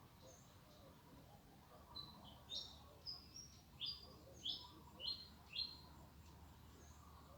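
A songbird sings a phrase of about seven short, falling notes, roughly two a second, starting about two seconds in and ending near six seconds. Fainter, higher calls of other birds sound around it.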